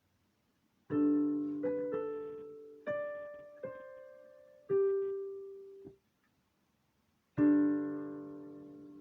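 Piano played slowly and haltingly: a chord, then a few single notes, then an abrupt stop. After a short pause a final chord is struck and left ringing.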